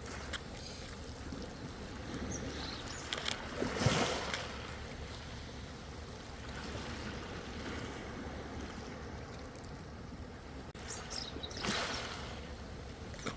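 Ocean waves washing in, a steady wash of water with two louder splashes of breaking water, the loudest about four seconds in and another near the end.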